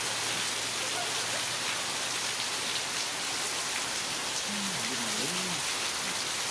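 Heavy rain falling steadily, a dense, even hiss of drops on the surroundings.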